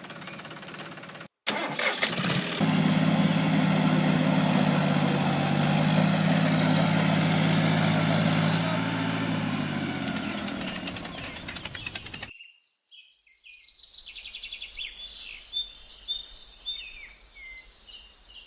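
A small engine starting up and running steadily for several seconds, then dying away. Birds chirp near the end.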